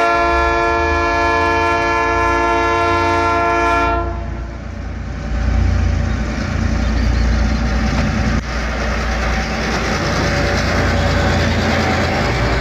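Diesel freight locomotives, an EMD GR-12W and an ALCo RSD16, passing: a multi-tone locomotive horn holds one long blast for about four seconds and cuts off, then the engines rumble low and steady as the loaded train goes by with rail noise.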